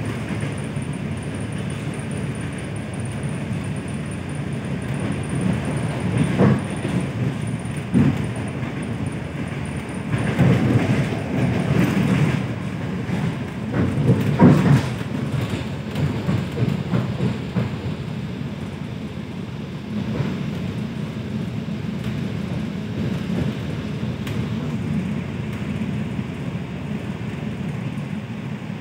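ED4M electric commuter train running along the line, heard from inside the carriage: a steady low rumble of wheels on rails, with a few louder knocks and clatters, the loudest about halfway through.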